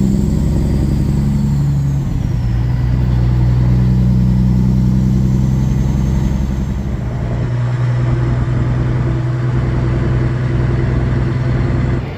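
Kenworth W900 semi truck's diesel engine running steadily under way, its drone stepping to a lower pitch about two seconds in and changing again around seven seconds in, as with gear changes. A faint high whine glides up and down above it.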